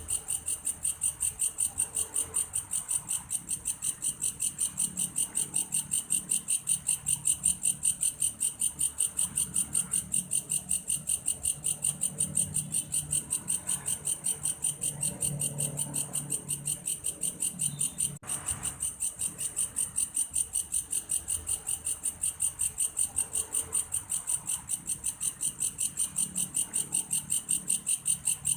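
Belalang kayu grasshopper calling: a steady, cricket-like shrill chirping in an even rhythm of about four pulses a second, with a faint low rumble underneath in the middle.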